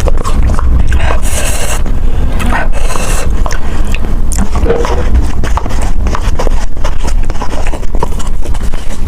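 Close-miked eating sounds: wet chewing and smacking with many small irregular clicks, over a steady low rumble.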